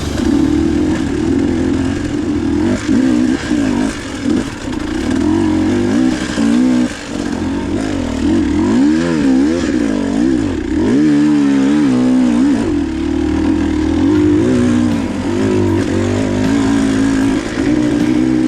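Two-stroke dirt bike engine running under the rider's throttle, its pitch swinging rapidly up and down again and again through the middle stretch as it is revved on and off, steadier before and after.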